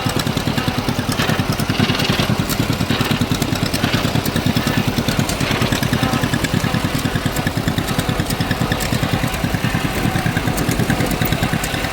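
Tractor engine running steadily, heard from the seat, with an even, rapid beat of firing pulses that holds without change.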